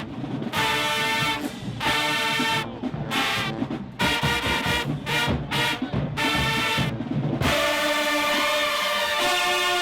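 High-school marching band playing: the brass hits short, punchy chords separated by brief gaps over drums and low brass. About three-quarters of the way through, the brass switches to long held notes and the low end drops away.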